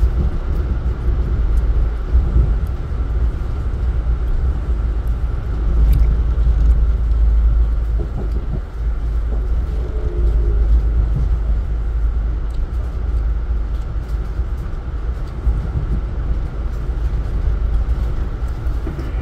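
Passenger train running noise heard from inside the carriage: a steady low rumble from the wheels and running gear as the train rolls along, with a few faint clicks.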